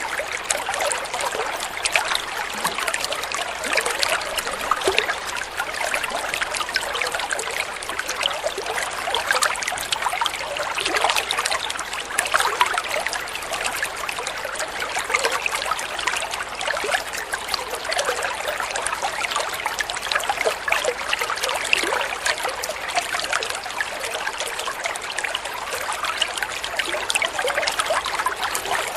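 Water flowing and trickling steadily, a small stream or water running over stones, with a constant busy babble of small splashes.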